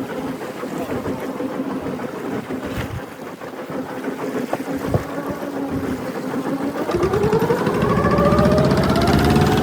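Boat engine idling steadily, then revving up about seven seconds in, its pitch rising and the sound growing louder.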